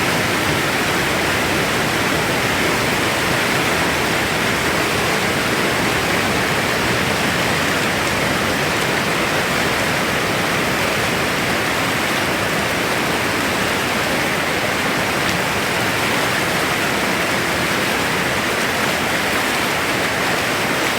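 Glacier-fed river rushing and tumbling over rocks, a steady loud noise of churning water.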